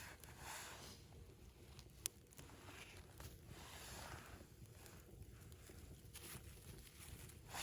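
Faint crackle of a wood campfire burning dry split wood, with one sharp pop about two seconds in.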